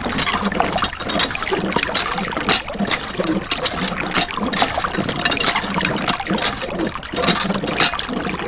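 Water trickling and splashing steadily, with many small irregular splashes.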